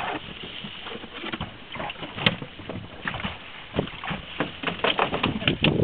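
Small fishing boat on the water: water lapping against the hull, with irregular knocks and clicks that come more often near the end.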